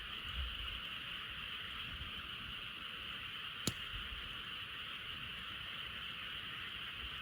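A dense chorus of frogs calling steadily, with one sharp pop from a wood campfire about three and a half seconds in.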